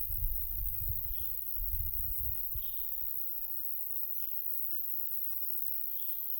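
Wind buffeting the microphone as a low rumble for the first two seconds or so, then easing. A bird repeats a short high call about every one and a half seconds over a steady, very high hiss.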